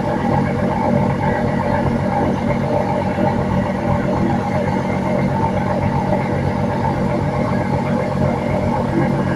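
A boat's engine running steadily at a constant low speed.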